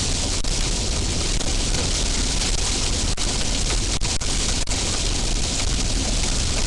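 Steady loud rush of rain and wind on a car driving through a severe thunderstorm, over low road rumble, with a few sharp single taps of drops or small hail striking the car.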